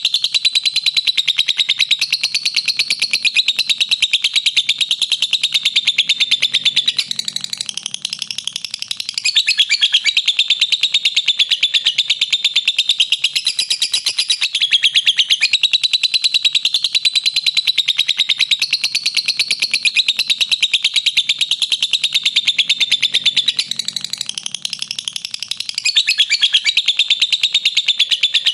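Lovebird giving its long 'ngekek' call: a continuous, rapid, shrill chatter of repeated chirps. It turns softer and more ragged briefly twice, about seven seconds in and again near the end.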